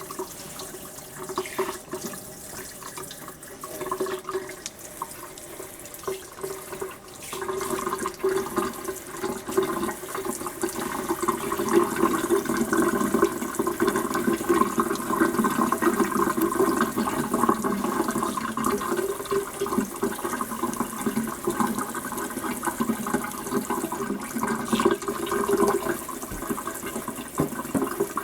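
Water running from a tap into a bath or sink, a steady rush that grows louder about seven seconds in.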